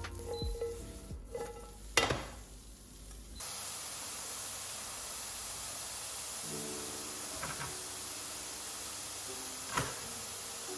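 Mushrooms frying in a little olive oil in a pan: a steady sizzle that starts suddenly about three seconds in. A sharp click comes about two seconds in and another near the end.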